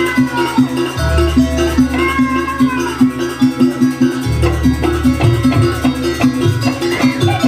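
Live Banyuwangi gamelan music: a fast, even repeating pattern of struck pitched notes with a gliding melody line above. Deep low strokes swell about a second in and again a little past four seconds.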